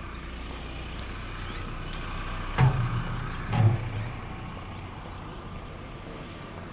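A vehicle running with a steady low rumble, and two heavy thumps about a second apart, about two and a half seconds in.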